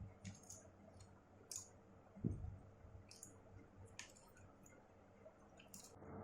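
Faint, scattered clicks and taps of small parts and tools being handled while the front camera is fitted into an iPhone 6S Plus, with one soft thud a little after two seconds.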